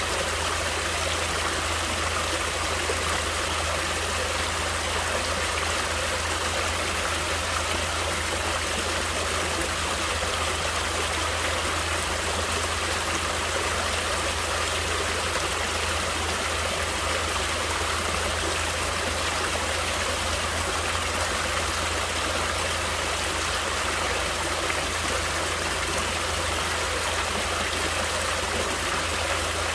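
Natural water flowing steadily, an even rushing hiss with a low rumble underneath.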